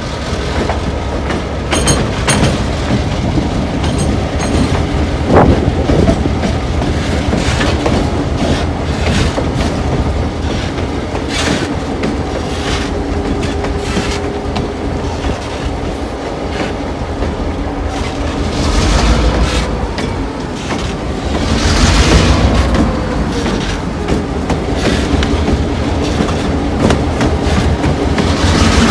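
Train rolling past at close range: a steady rumble with repeated clicks of the wheels over rail joints, growing louder around two-thirds of the way through.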